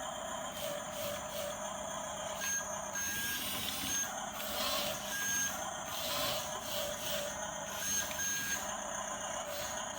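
Remote-control toy bulldozer running, its small electric motors and gearbox giving a steady whine, with a few short high electronic beeps in the middle of the stretch.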